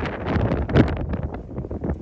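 Wind buffeting the microphone in irregular gusts, easing off near the end.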